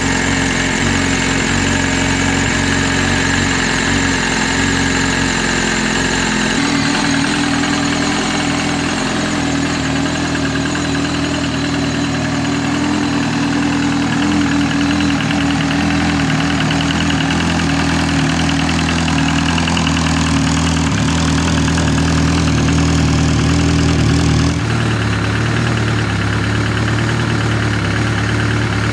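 Freshly rebuilt, supercharged 2003 Yamaha R1 inline-four engine idling steadily, running in to be checked for leaks. Its tone changes slightly twice: about six seconds in and again near the end.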